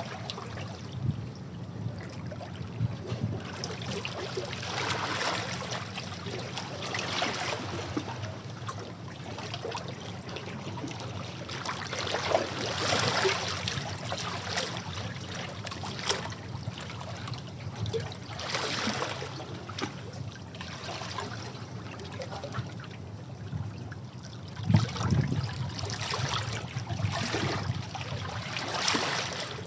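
Sea waves breaking and washing over rocks, surging every few seconds with water splashing and trickling back between the swells; the sharpest splash comes about 25 seconds in.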